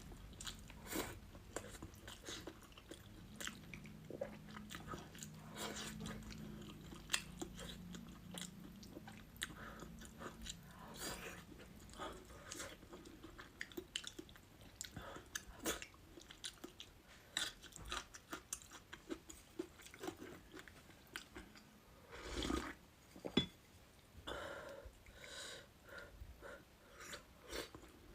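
Close-miked eating sounds: steady chewing and biting with many short, crisp crunches.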